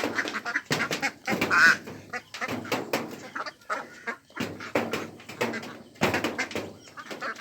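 A flock of ducks quacking, many short calls overlapping in quick succession, with one louder wavering call about one and a half seconds in.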